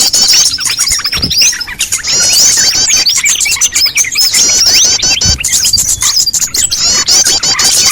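Dense, overlapping chorus of small songbirds chirping and twittering rapidly without pause. It is a bird-lure recording played to attract small birds.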